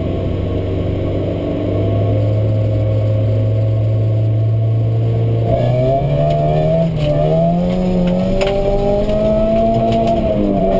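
Opel Astra GSi rally car's engine heard from inside the caged cabin: held at steady revs for about five seconds, then rising in pitch as it accelerates, with two short dips at gear changes. Gravel ticks and clatters against the car once it picks up speed.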